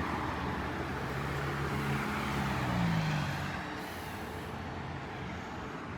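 Street traffic noise with a motor vehicle's engine running close by: a low hum that rises slightly in pitch about three seconds in, then fades into the steady road noise.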